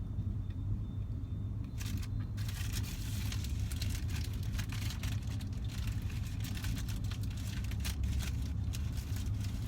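Steady low rumble of a car with its engine running, heard from inside the cabin. About two seconds in, close crinkling and rustling starts and keeps on.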